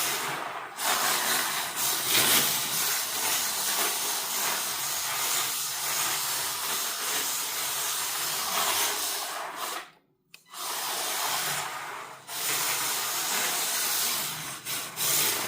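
WLtoys K969 RC drift car driving, its hard plastic drift tyres sliding with a steady hiss and the small electric motor running, broken by a short gap about ten seconds in.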